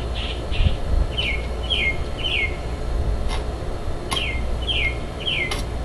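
A bird singing outdoors: two phrases of three quick, down-slurred chirps, about a second and a half apart, over a steady low hum, with a few sharp clicks.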